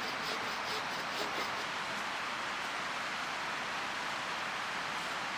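Mountain stream flowing: a steady, even hiss of running water.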